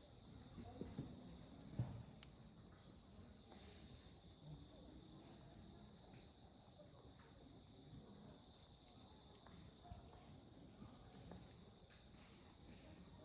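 Night insects chirping steadily in regular repeating pulses, with a faint wood campfire crackling beneath and one sharp pop about two seconds in.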